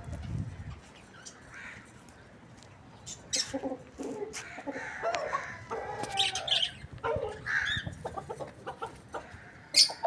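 Chickens clucking and calling, ending with a quick run of short clucks.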